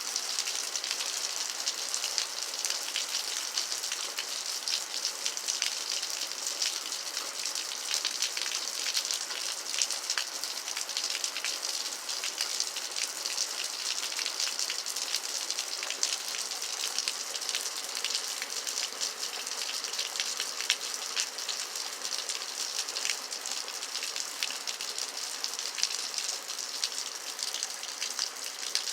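Steady rain falling, an even hiss dotted with many small drop patters throughout.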